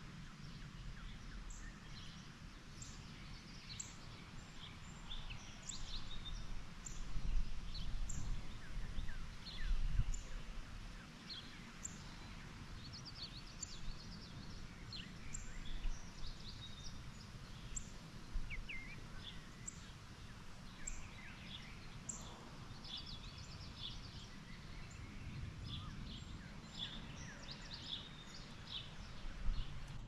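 Several songbirds chirping and calling, many short high chips and notes scattered throughout, over a steady low rumble of outdoor background noise.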